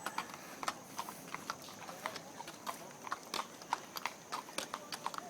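A pony's hooves clip-clopping on hard ground: a run of sharp, uneven clicks, a few each second.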